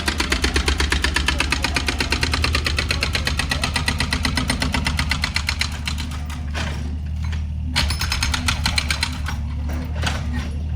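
Excavator-mounted hydraulic breaker hammering in a fast, even run of strokes over the steady hum of the excavator's diesel engine. The hammering eases off briefly about two-thirds of the way through, then starts again.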